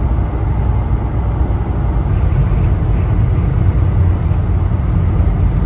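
Volkswagen Vanagon cruising on the highway, heard inside the cab: a steady low engine and road rumble with no change in speed or pitch.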